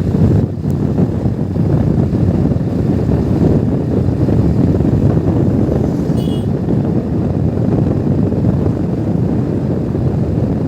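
Heavy wind buffeting the microphone, a steady low rumble, with one brief high chirp about six seconds in.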